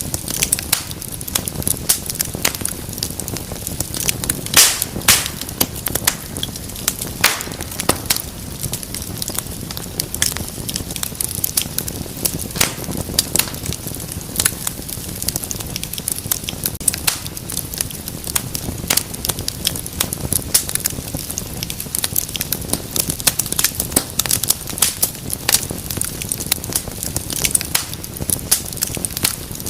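Wood fire in a fireplace crackling steadily over a low rumble of flames, with dense small pops and a few louder snaps about five and seven seconds in.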